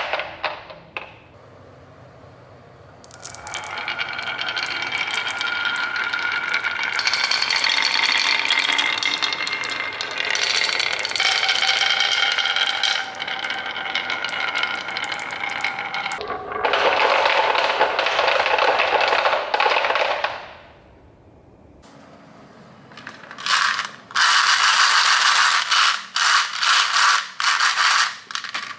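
Marbles rolling and clattering through a marble run: long stretches of rapid clicking and rattling with a ringing tone, a short lull, then sharp separate clacks near the end.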